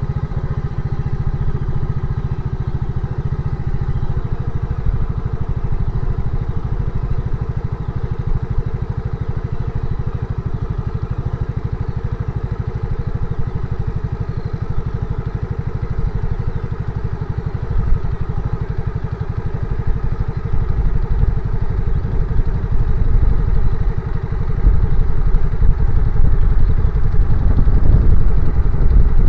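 Motorcycle engine running steadily, growing louder over the last few seconds.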